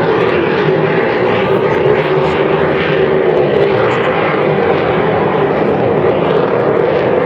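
Aermacchi MB-339 jet trainers flying overhead: a loud, steady jet engine noise that neither swells nor fades.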